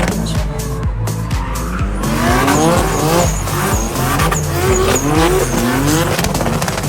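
Drift cars revving hard again and again with tyre squeal, their engine pitch sweeping up in repeated climbs, over background music with a heavy bass line.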